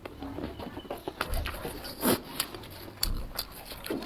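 Close-up eating sounds: chewing and crunching food, with irregular sharp mouth clicks and smacks, the loudest about two seconds in.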